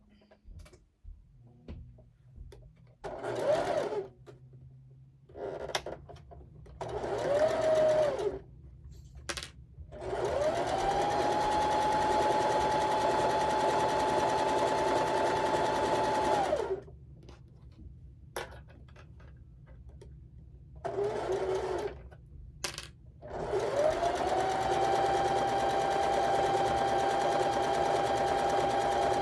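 Electric sewing machine stitching corner-to-corner seams: a few short bursts, then two longer steady runs of about six seconds each. At each start the motor's whine rises quickly, then holds at speed until the machine stops.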